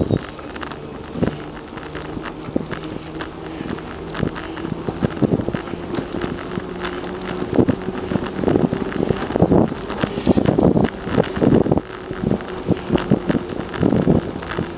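Bicycle rolling along a paved trail, with a steady low hum and irregular rattling knocks that come thicker in the second half, and wind buffeting the microphone.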